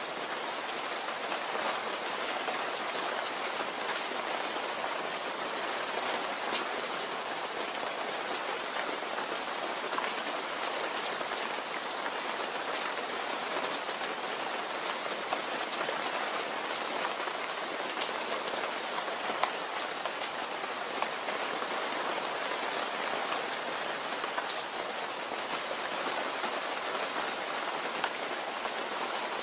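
Steady rain falling: an even hiss with individual drops ticking sharply throughout.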